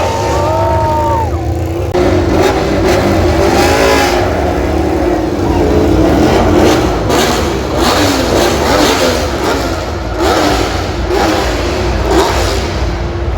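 MotoGP racing motorcycle engines revving. The pitch rises and falls over the first second or so, then the engine holds a steadier note.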